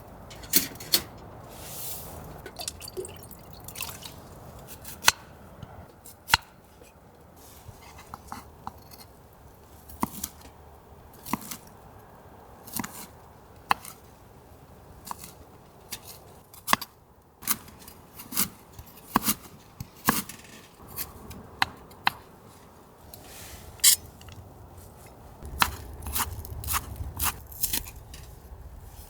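Cooking preparation in a small space: irregular clicks, taps and light clinks of utensils, containers and ingredients being handled. A low steady rumble joins near the end.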